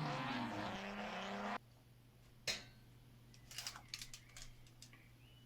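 Volkswagen VR6 engine sample from the end of a backing track, running with a steady note, then cutting off suddenly about a second and a half in. A faint low hum and a few soft clicks follow.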